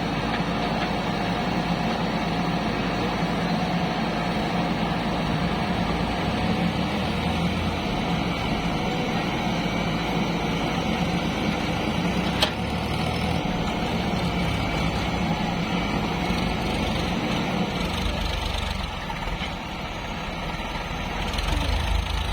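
Diesel engine of a tractor or loader running steadily, with one sharp click about twelve seconds in. The engine sound drops off for a few seconds near the end, then comes back up.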